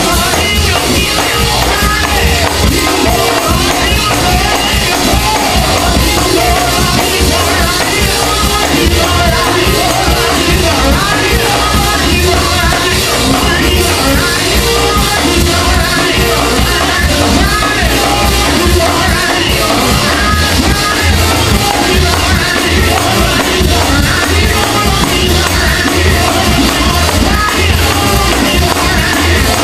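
Live gospel praise-and-worship music in a church: singing over a band with a steady beat.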